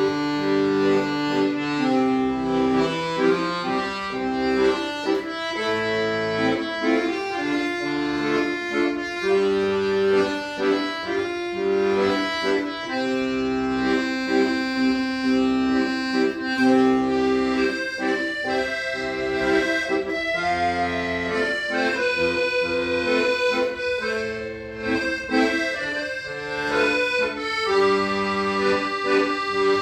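Accordion playing a slow melody in long held notes over a left-hand bass-and-chord accompaniment.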